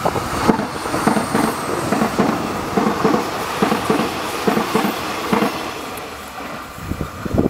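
Soekarno-Hatta airport rail link electric train passing close by on a curve. Its wheels clack over the rail joints about twice a second over a steady running rumble.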